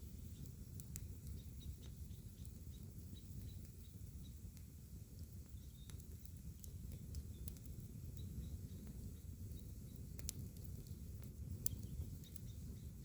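Campfire crackling: sparse sharp pops and snaps, a few of them louder, the loudest near the end, over a steady low rumble. Faint high chirps run through it.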